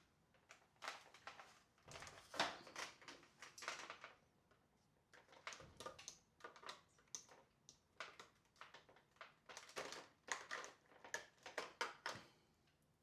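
Hard plastic parts of a Tineco floor washer's housing being handled during disassembly: irregular clusters of small clicks, taps and scrapes with short pauses between them.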